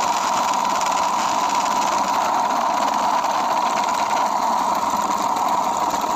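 A toy's small motor running steadily, a constant mid-pitched whine that does not change.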